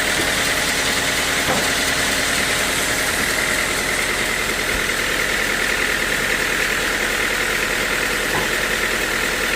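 Sawmill machinery running steadily: a constant mechanical drone with an even, hissing whine.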